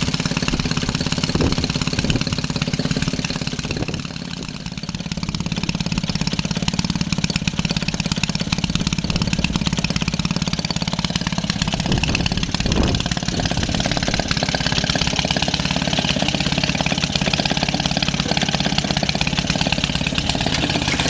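Maytag 72 twin-cylinder two-stroke engine running steadily under load, belt-driving a washing machine, a little slower than its proper speed. The loudness dips briefly about four seconds in, then recovers.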